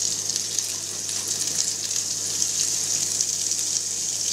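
Halloumi cheese frying on a hot grill pan and, breaded, in olive oil in a frying pan: a steady sizzling hiss with small crackles.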